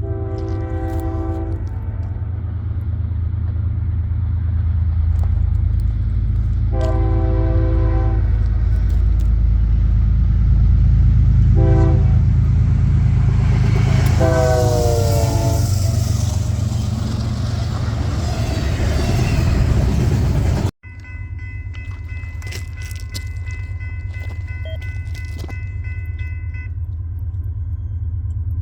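Diesel freight locomotive's multi-chime air horn sounding the grade-crossing signal, two long blasts, a short one and a long one, over the heavy rumble of the approaching train; the last blast drops in pitch as the locomotive passes and the rumble is at its loudest. After a sudden cut, a quieter stretch with a steady high tone, and another horn blast begins at the very end.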